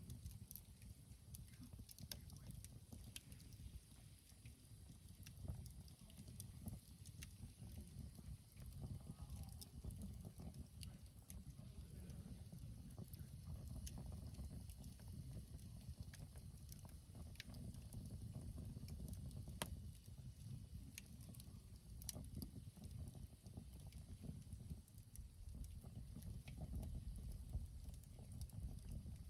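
Faint campfire crackle: scattered sharp pops and ticks from burning wood at irregular intervals, over a steady low rumble.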